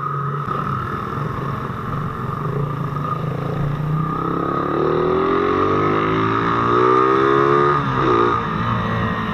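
Motorcycle engine running under way, with its note climbing from about four seconds in as it accelerates, then dropping off near the end.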